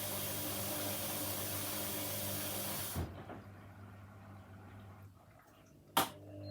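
Washing machine taking in water: a steady hiss from the water inlet with a low mains hum underneath, cut off by a click about halfway through. A single sharp click comes just before the end, after which the hum resumes.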